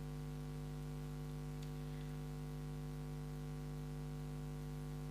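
Steady electrical hum on the recording, several fixed pitches over a faint hiss, with one faint click about a second and a half in.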